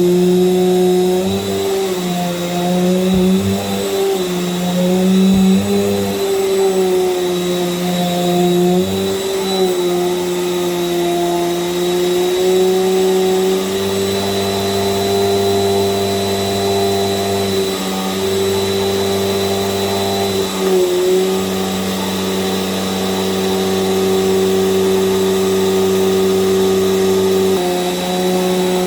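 Small Bissell vacuum cleaner running on a rug, a steady motor hum with a high whine. The pitch dips and rises repeatedly in the first half, as the load on the motor changes while it is pushed back and forth, then holds steadier.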